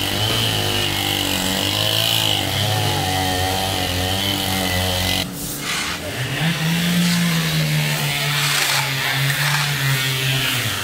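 Two-stroke chainsaw running at a steady pitch. About halfway the sound breaks off abruptly, and an engine comes back at a higher, steady pitch.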